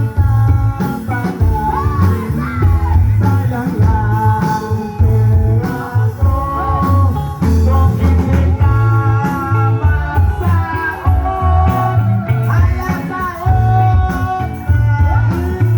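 A rock band playing a song, with singing and guitar over a heavy, pulsing bass.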